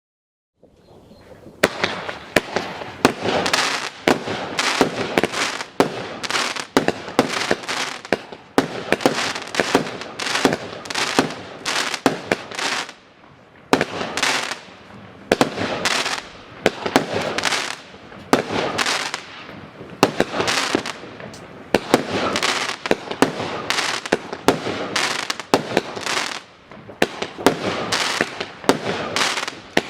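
A 36-shot, 25 mm consumer firework battery (cake) firing, beginning about a second and a half in: a long run of sharp shots and bursts, roughly one or two a second with short lulls between groups.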